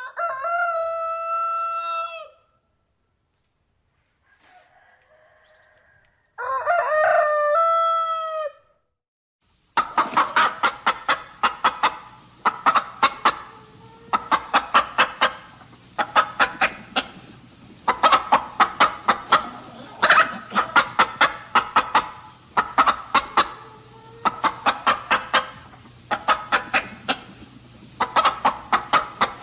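A rooster crowing twice, each crow a long pitched call of about two seconds. Then chickens clucking in quick runs of short calls that come back about every two seconds, over a faint steady hum.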